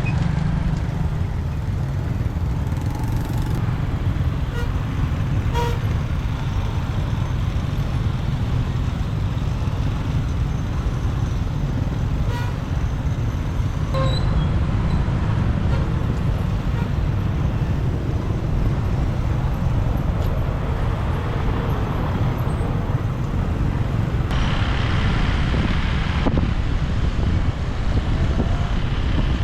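Motorbike riding through city traffic: steady engine and road noise, with a few short horn toots from the surrounding traffic.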